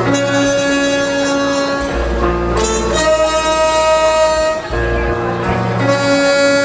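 Live jazz band playing: a horn holds three long notes in turn, each about two seconds, over bass, piano and drums.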